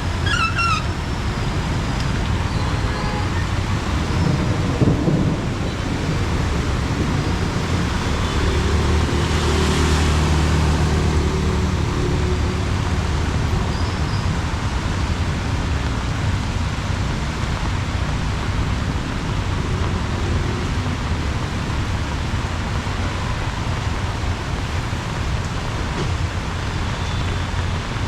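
Heavy rain pouring steadily, drumming on an umbrella. About eight seconds in, a motor vehicle passes, its engine hum and tyre spray swelling and fading over a few seconds.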